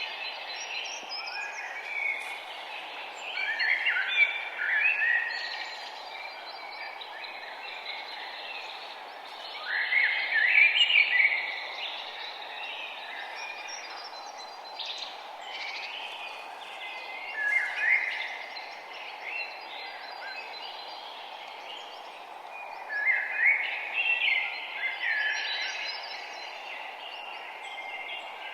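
Songbirds singing in short chirping phrases every few seconds, the loudest about ten seconds in and again near the end, over a steady background hiss.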